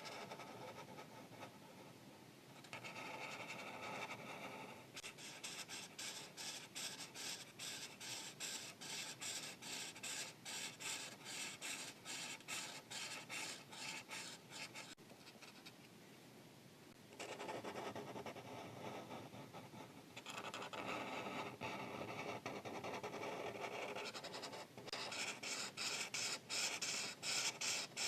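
Markers scratching across paper as an area is colored in, in rapid back-and-forth strokes, several a second. The strokes come in bouts with brief pauses, about two seconds in and again around the middle, and grow louder near the end.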